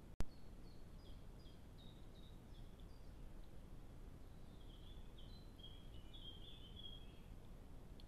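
A small songbird singing a run of short, high, stepped notes, quickening into a denser phrase about five seconds in, over a steady low background hiss. A sharp click just after the start, where the recording cuts between two trail-camera clips, is the loudest thing.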